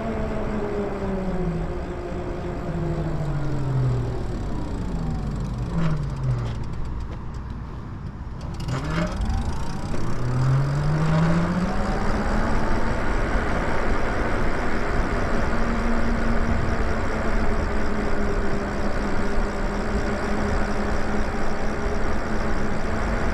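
Lyric Graffiti e-bike's electric motor whining under steady rushing riding noise. The whine falls in pitch as the bike slows almost to a stop about six seconds in, with a few clicks during the lull. It then rises again as the bike accelerates and holds a steady pitch at cruising speed for the rest.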